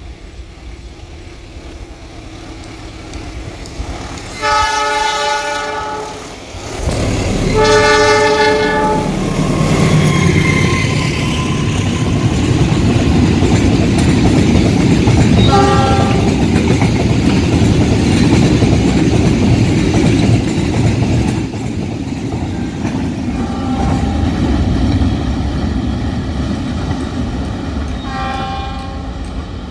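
Diesel locomotive sounding two long horn blasts about four and eight seconds in as it approaches. Then a long train of flat wagons rumbles and clatters past close by, with short horn toots later on.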